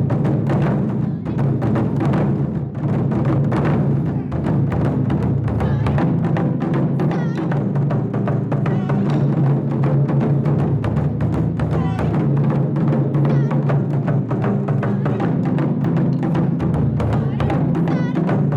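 Japanese taiko drum ensemble playing, with dense, rapid strokes in a driving rhythm.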